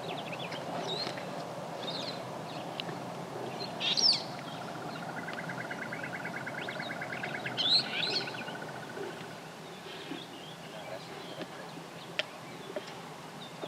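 Wild birds calling over a steady background hiss: two loud sweeping calls about four and eight seconds in, a rapid trill from about four to nine seconds, and scattered short chirps.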